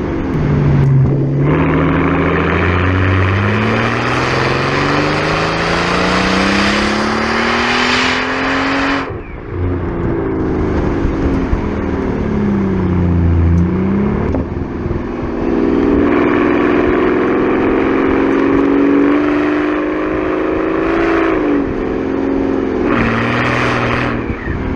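Tuned Mercedes-Benz CL65 AMG's twin-turbo V12 and exhaust accelerating hard, its note climbing steadily for about eight seconds before a sudden drop around nine seconds in. It then falls, climbs again and holds a steadier pull before further dips and rises near the end.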